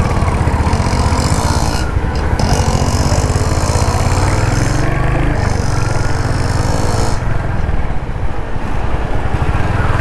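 Royal Enfield Hunter 350's single-cylinder engine running under way, its exhaust a steady, even pulsing thump. A high hiss cuts in and out over it several times.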